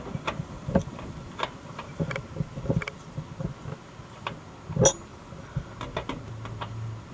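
Hand tools and metal parts clicking and clinking irregularly while an oil filter or drain plug is tightened under a truck, with one louder metal clank about five seconds in.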